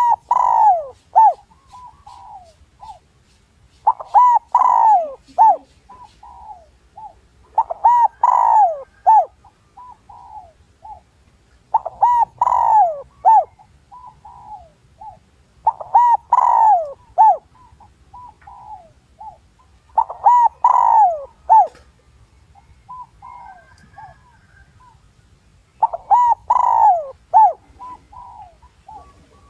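Spotted dove cooing. It repeats the same phrase seven times, about every four seconds with one longer pause: each phrase opens with a loud falling coo followed by a few shorter notes. This is a decoy call used to draw wild males in to fight.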